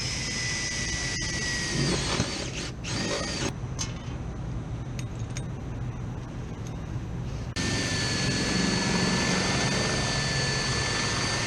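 Power drill cutting a 7/8-inch hole in the housing of a new refrigeration evaporator: a steady motor whine for about two seconds, then scattered scraping and clicks, then the drill runs again steadily from about two-thirds of the way through.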